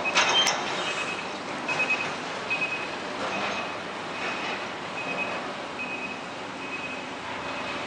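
A truck's warning beeper sounding a short high beep about every 0.8 s, steady and evenly spaced, over the noise of heavy truck traffic. There is a brief louder clatter right at the start.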